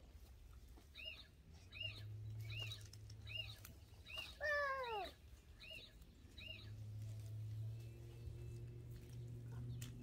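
A bird calling a short, arched, high note over and over, about once every three quarters of a second, with one louder call sliding downward in pitch about halfway through. A low steady hum runs underneath.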